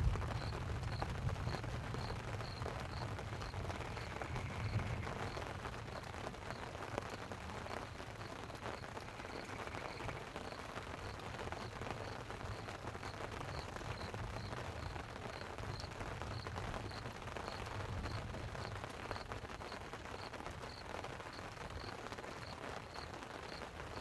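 Light rain pattering on a tent over a steady rushing background, with a low thunder rumble dying away in the first few seconds. A faint, even high ticking, about two ticks a second, runs underneath.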